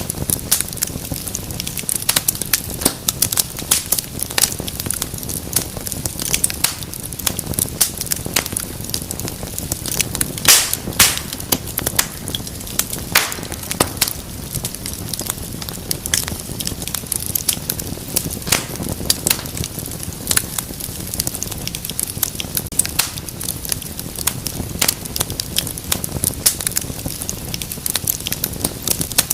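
Wood fire crackling steadily in a fireplace: many irregular snaps and pops over a low rumble of flame, with a few louder pops midway.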